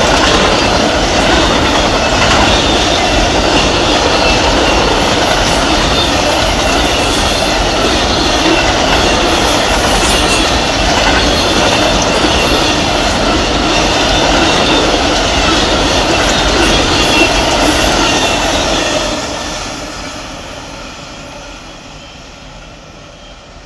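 Amtrak passenger train's cars rolling past at speed, a loud steady rumble of wheels on the rails. About 19 seconds in the end of the train goes by and the sound fades away.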